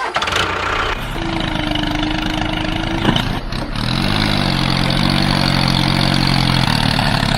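Small engine running, with a steady whine for the first few seconds and a brief rise in pitch about four seconds in before it settles.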